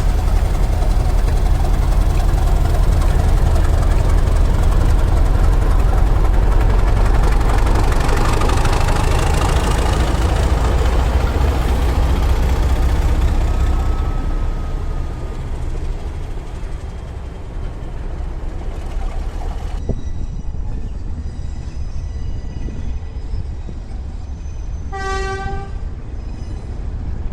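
Heritage railway train running, with a heavy rumble that eases off about halfway through. Near the end there is one short, pitched toot.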